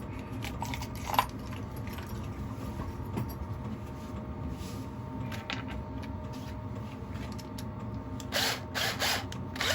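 Electric motor of a workshop power tool running steadily with a constant hum. There is a sharp click about a second in and handling rustles near the end.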